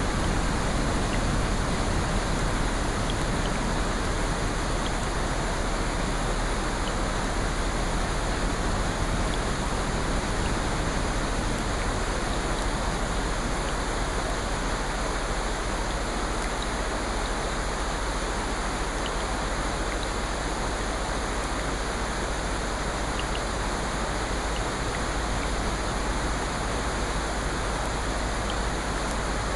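Steady rushing water noise from a relaxation nature-sounds track, even and unbroken, with a few faint small ticks scattered through it.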